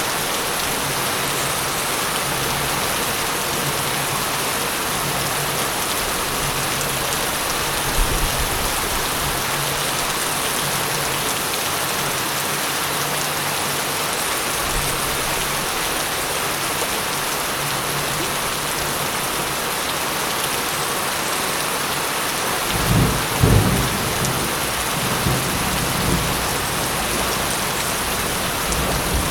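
Steady rain falling, with a brief low rumble of thunder about eight seconds in and a louder, longer rolling peal of thunder near the end.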